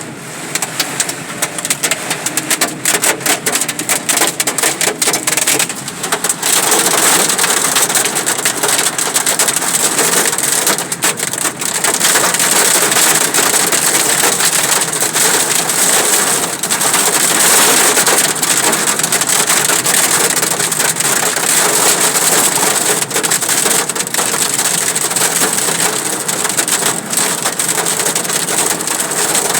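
Hail and heavy rain pelting a car's roof and windscreen in a dense, continuous rattle of hard impacts, growing heavier about six seconds in.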